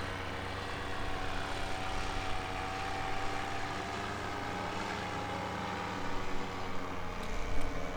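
Steady motor drone made of several held tones, one of them slowly rising and then falling in pitch.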